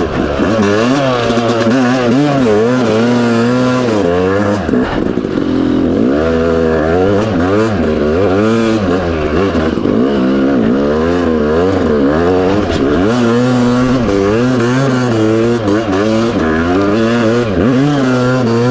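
Yamaha YZ250 two-stroke dirt bike engine under way, its revs rising and falling over and over with the throttle.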